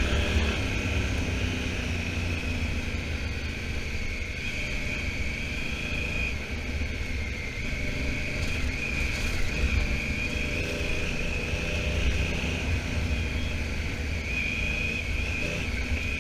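Honda Africa Twin's parallel-twin engine running at steady road speed, heard under a heavy, continuous wind rumble on the microphone.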